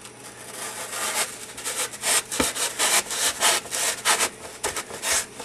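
A hand tool cutting or rasping a piece of scenery foam in quick back-and-forth strokes, about two to three a second, starting about a second in.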